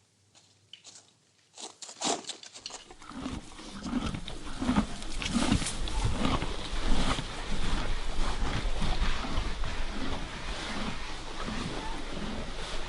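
Stable ambience: a few faint clicks, then about three seconds in a loud, rough, continuous sound from a horse close by, which builds and holds with irregular swells.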